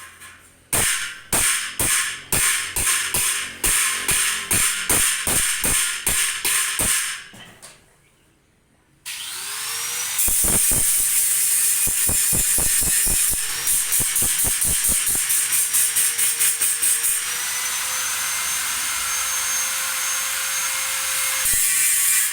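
Workshop tools on band-saw blade steel. First comes a run of sharp, regular strikes, about three a second. After a short pause a motor spins up with a rising whine and runs on steadily with a hiss, with a fast rhythmic ticking for a few seconds.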